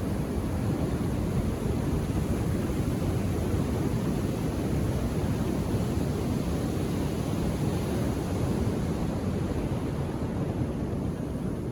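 Ocean surf washing on a beach: a steady, deep rush of waves with gentle swells in loudness.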